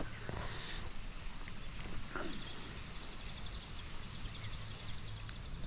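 Birds calling in a quick series of short, high, falling chirps, thickening into a rapid chatter with a few brief whistles near the end, over a low steady outdoor rumble of wind and water.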